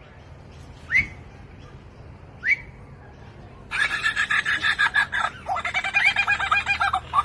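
A songbird giving two short, separate rising whistles, then from just under four seconds in breaking into a fast, dense run of chattering, warbling notes.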